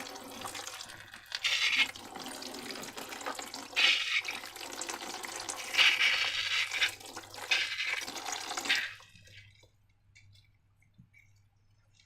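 Thick, wet slime or liquid glue pouring and squelching in four louder surges, then stopping about nine seconds in.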